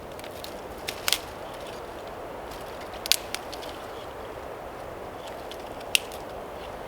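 Dry twigs and small branches snapping in a few sharp cracks, about one, three and six seconds in, over a steady wind hiss.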